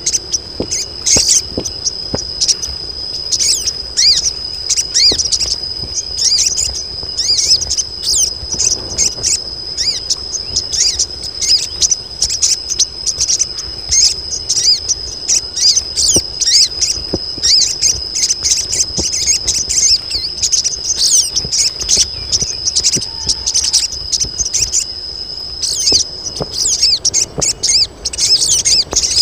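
A colony of female sogon calling together: many rapid, overlapping high chirps over a steady high buzz, the excited female calls used to draw in males.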